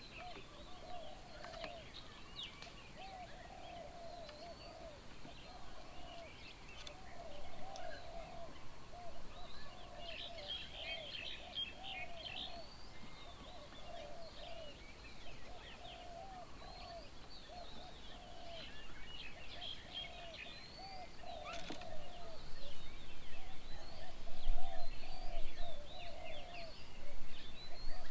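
Garden birds calling around a bird table: a steady run of short, repeated mid-pitched notes under many quick high chirps. A low rumble grows louder over the last few seconds.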